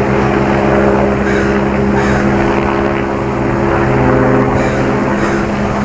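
Helicopter hovering overhead: a loud, steady drone of rotor and turbine with an even low hum that holds without change.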